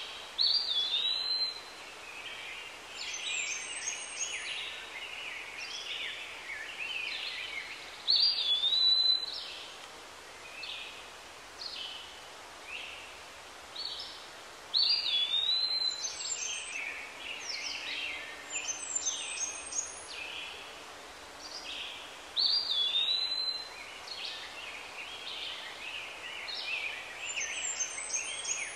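Birds singing and chirping over a light outdoor background. One bird repeats a short whistled phrase every six or seven seconds, with quick runs of high notes in between.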